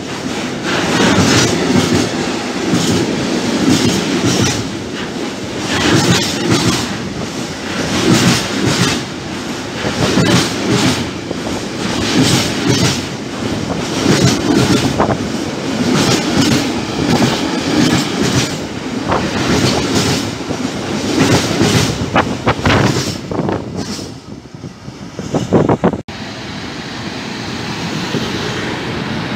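Empty articulated container flat wagons of a freight train rolling past at speed, a fast, loud clatter of wheels over rail joints that thins out after about twenty seconds. After an abrupt break near the end, a steadier, quieter running noise follows from a Vectron electric locomotive drawing in with a car-carrier train.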